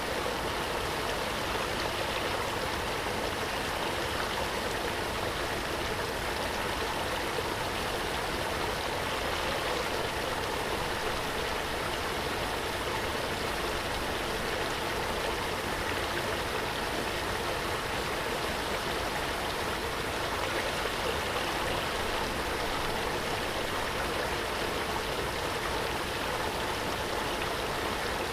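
Waterfall: a steady rush of falling water, a constant full hiss with no breaks.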